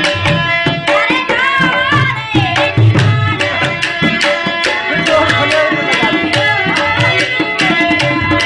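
Rajasthani folk music: tabla playing a steady run of quick strokes under a melody that bends and glides in pitch, over held drone tones.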